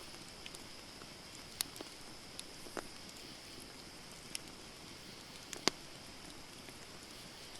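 Wood campfire crackling: scattered sharp pops and snaps over a steady hiss, the loudest pop coming a little before six seconds in.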